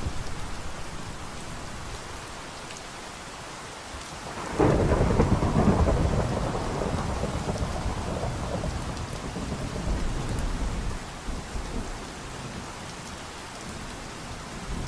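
Steady rain falling, with a sudden thunderclap about four and a half seconds in that rumbles on for several seconds before dying away.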